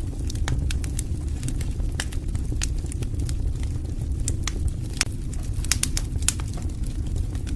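Wood fire burning in a fireplace: a steady low rumble of flame with frequent irregular crackles and sharp pops from the burning wood, a few louder snaps scattered through.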